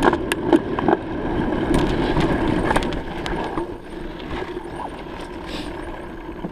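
Bicycle riding noise: wind rushing over the microphone and tyres rolling, with scattered sharp clicks and rattles. It gets quieter after about three seconds.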